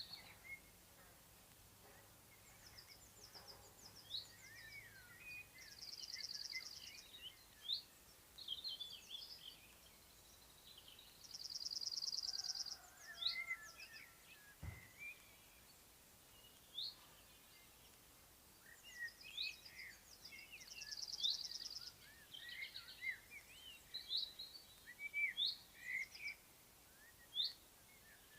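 Several wild birds singing in spring countryside. Many short whistled chirps overlap, and a dry buzzing trill of about a second comes back three times. There is a single soft click about halfway through.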